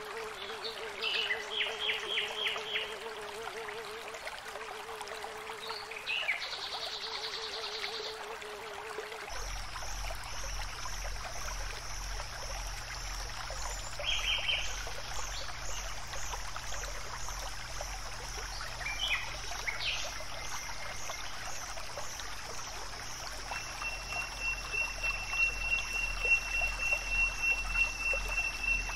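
Outdoor nature ambience: scattered bird chirps and insect trills over a steady wash like running water. About nine seconds in, the background changes to a low hum with a high, steady insect pulsing. Near the end a bird gives one long, even trill.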